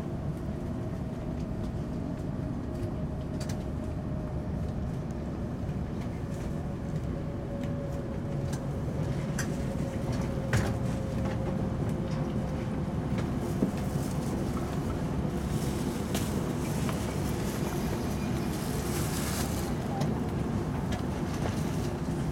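An E5 series Shinkansen heard from inside the carriage as it slows into a platform: a steady low running rumble, with a faint motor whine that slowly falls in pitch over the first dozen seconds. A few sharp clicks and a hiss come in the later part.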